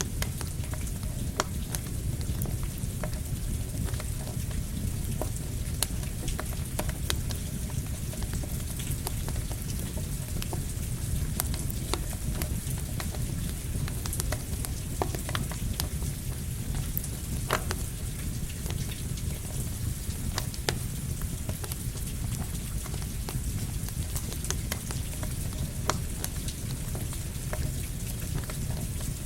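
Steady rain together with a crackling campfire: a continuous hiss and low rumble with irregular sharp pops and snaps from the burning wood.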